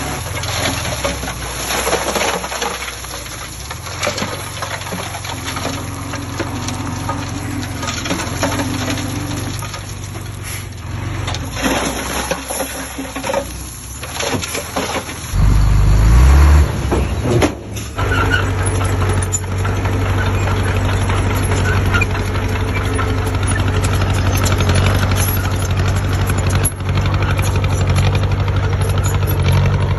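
Heavy diesel engine of construction machinery running. About halfway through it becomes louder and deeper for a couple of seconds, then settles into a steady, even running.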